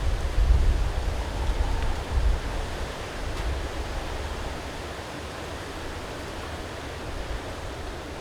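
Strong wind gusting against the microphone, low rumbling buffets over a steady rushing hiss; the gusts ease about three seconds in, leaving a steadier, quieter rush of wind.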